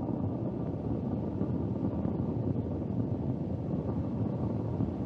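Soyuz rocket's first-stage core engine and four strap-on boosters firing during ascent: a steady, deep, crackling rumble.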